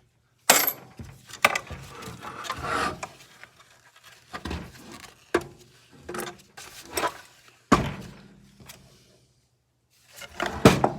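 Hand tools and metal parts of a miter saw being worked during disassembly: a series of irregular knocks, clicks and scraping, with a sharp knock about half a second in and another near the eight-second mark.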